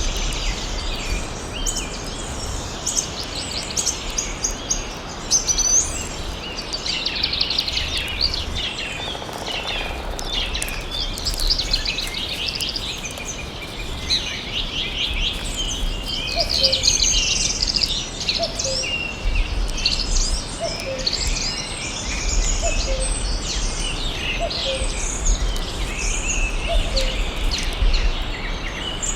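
A chorus of many songbirds chirping and trilling together, dense and overlapping. In the second half a lower, short falling call repeats about every two seconds.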